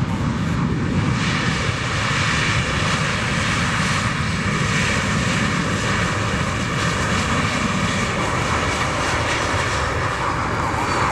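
Jet engines of a GOL Boeing 737 airliner landing: a loud, steady rush of engine noise, with a faint falling whistle near the end.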